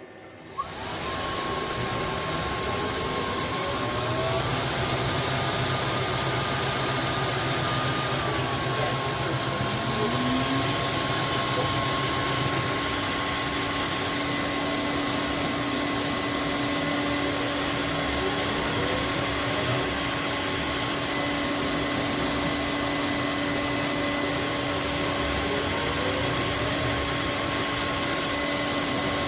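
Roborock F25 ACE wet/dry vacuum-mop switching on with a click and running steadily, its motor and brush roller giving a loud hum with a whine that steps up in pitch a few seconds in and settles back down.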